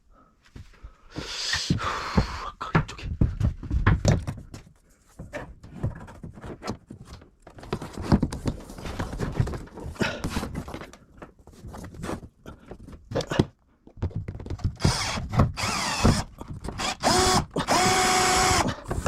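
Irregular knocks and clatter of material and tools being handled, then, from about fifteen seconds in, a power drill whirring in several short spells.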